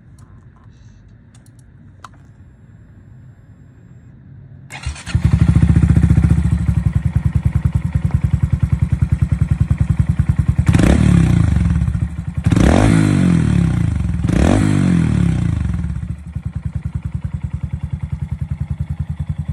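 Honda Monkey 125's single-cylinder engine with a Yoshimura full exhaust system, starting about five seconds in after a few faint clicks, then idling with three quick throttle blips before settling back to a steady, pulsing idle.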